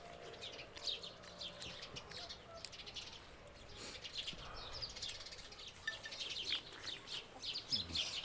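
Birds chirping: many short, quick high chirps, over and over.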